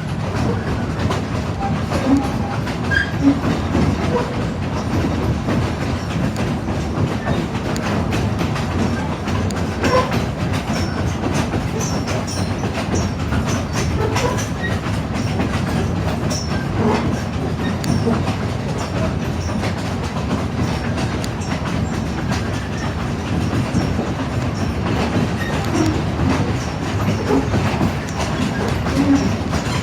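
Narrow-gauge railroad passenger car rolling along the track behind a steam locomotive: a steady rumble of wheels on rail, with scattered clicks and brief squeaks from the wheels and the car.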